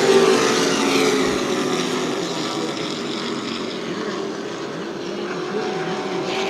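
Racing Super Truck engines running hard around the oval. Loud at first with a strong engine tone, then fading as the trucks pull away, building slightly again near the end.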